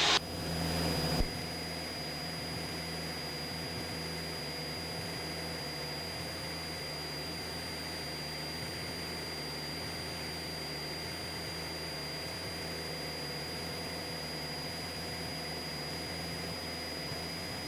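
Steady in-flight drone of a Cessna 172SP's Lycoming four-cylinder engine and propeller, heard muffled through the aircraft's intercom audio, with a thin constant high whine over it. It is louder for about the first second, then drops to an even level.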